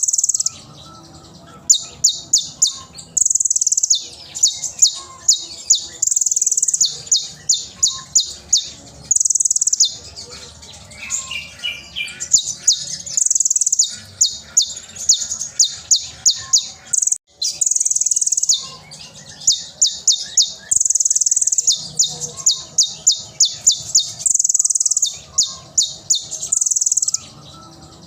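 Kolibri ninja sunbird singing loud and high-pitched: runs of rapid, sharp staccato notes alternating with short buzzy trills, the pattern repeating every couple of seconds.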